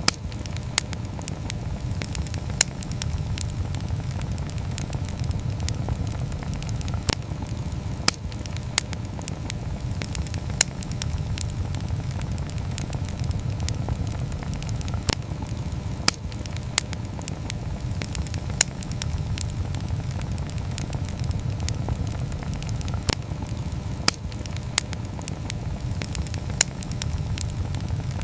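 Wood campfire burning, with sharp crackles and pops at irregular intervals over a steady low rumble.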